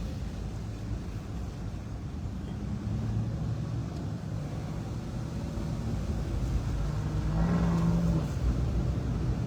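Car engine and road noise from a car being driven, a steady low rumble, with an engine hum swelling louder about seven seconds in.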